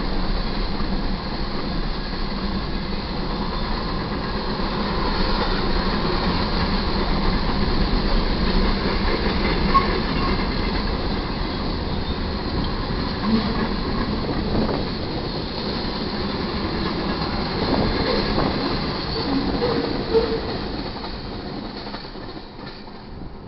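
Freight cars of a passing manifest train rolling by at speed, a continuous rumble and clatter of steel wheels on rail with a few short squeaks. The sound fades over the last few seconds as the train draws away.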